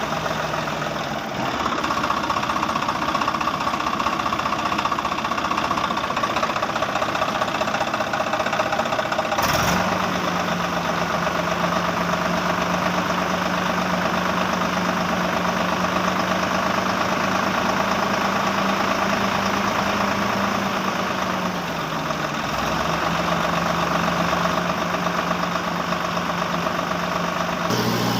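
Engine running steadily with a knocking, idling sound. Its pitch jumps abruptly about a second in, again near ten seconds, around twenty-two seconds and at the very end.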